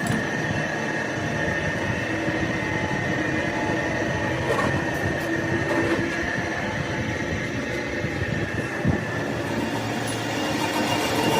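A metalworking machine running steadily: an even rumble with a held high-pitched whine over it.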